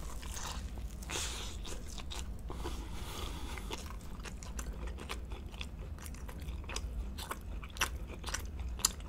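A close-miked bite into a tuna steak and raw honeycomb sandwich on toasted Hawaiian sweet bread, then closed-mouth chewing: soft crunches and many small wet mouth clicks.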